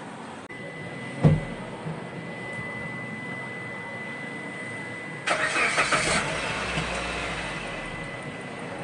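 SUV engine cranked by the starter for about a second in rapid pulses, then catching and settling to idle, a little over five seconds in. Before it come a heavy thump about a second in and a steady high tone that runs on through the start.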